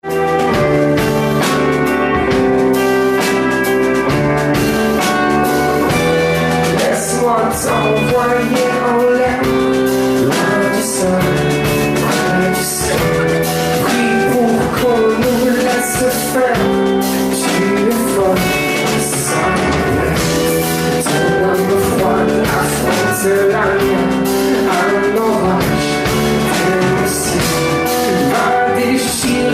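A rock band playing a song, with electric guitar, drum kit and a male voice singing.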